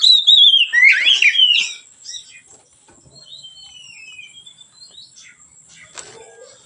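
Oriental magpie-robin singing. A loud phrase of clear whistles sliding up and down fills the first two seconds, then softer, thinner whistled notes follow, and there is a sharp click near the end.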